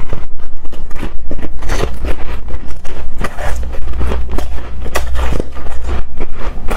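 Hard, frosty shaved ice being bitten and chewed close to the microphone: a dense run of crisp, irregular crunches and squeaks.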